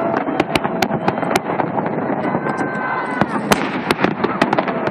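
Holiday fireworks salute: an irregular string of sharp cracks and bangs, a few each second, over the steady chatter of a large crowd.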